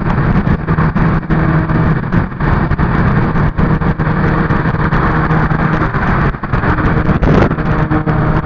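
Car driving along, its engine running steadily under loud, continuous road noise.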